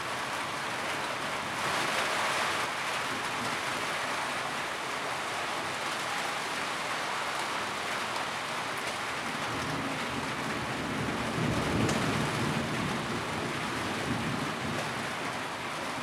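Steady rain drumming on a tin roof, a dense even patter. A low rumble swells briefly about three-quarters of the way through.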